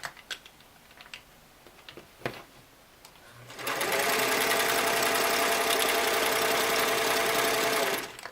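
Restored Singer Model 337 sewing machine sewing a straight stitch at a steady speed for about four and a half seconds, thrown into reverse on the fly while running, then stopping. A few light clicks of handling come before it starts.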